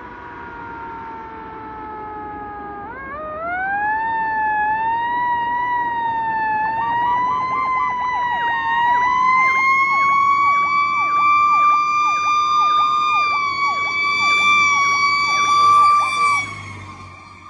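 Fire engine sirens sounding: a siren tone slides slowly down, winds back up sharply about three seconds in and holds high with a slow waver. From about seven seconds a second, rapidly dipping yelp tone joins it, and both cut off shortly before the end.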